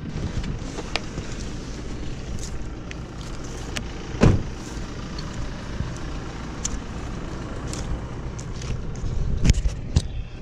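A 4x4's engine idling steadily while its door is opened, with scattered knocks and clunks, the loudest about four seconds in.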